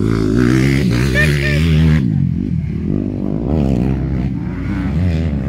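Motocross bike engines running on the track, revving up and down as the bikes ride round.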